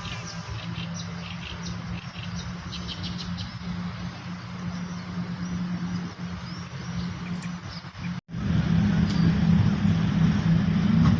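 Small birds chirping over a steady low mechanical hum. About eight seconds in the sound cuts out for a moment and comes back with the low hum louder.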